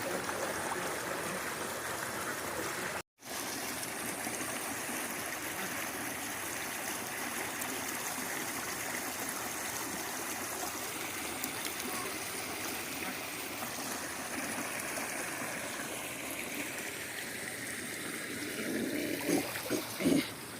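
Floodwater flowing steadily, a continuous rushing hiss with no distinct events. The sound cuts out completely for a moment about three seconds in, and faint voices come in near the end.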